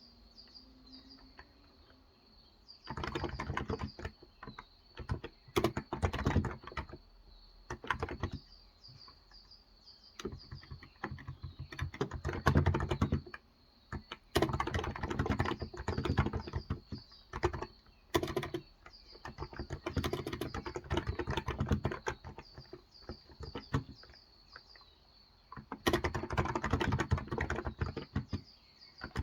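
Typing on a Cox Endeavour electro-capacitive (Topre-style) tenkeyless keyboard with light 35 g switches: runs of quick keystrokes broken by short pauses, after a quiet start of about three seconds. A faint, steady high chirping runs underneath.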